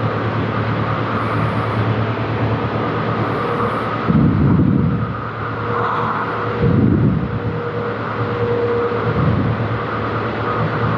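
Hyster V30ZMU electric turret truck in motion, a steady electric hum and noise with a faint on-and-off whine. Three louder low surges come about four, seven and nine seconds in.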